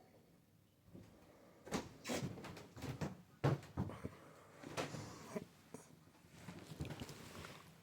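A series of irregular knocks, bumps and scrapes, beginning about two seconds in and thinning out towards the end, in a small room.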